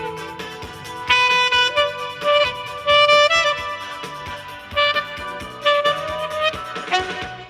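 Saxophone playing a slow melody of held notes over a backing track with a steady beat.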